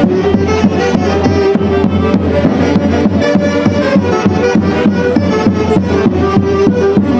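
Live Andean orchestra music playing: sustained melody over a steady drum beat.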